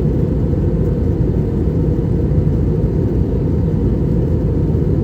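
Steady low rumble inside a small passenger plane's cabin, the engines and airflow running evenly in flight or on the takeoff run.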